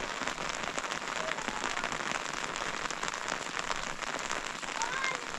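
Heavy rain falling steadily, a dense patter of drops on a surface. A few short faint high calls come near the end.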